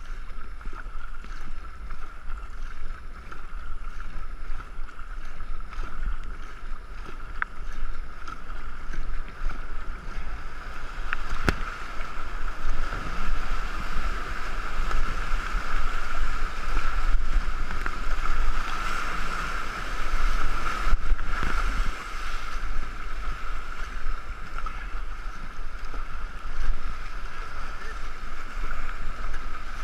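River water rushing and splashing around a canoe being paddled down a rapid, with wind and water buffeting a boat-mounted action camera; the rush grows louder through the middle, with a couple of sharp knocks.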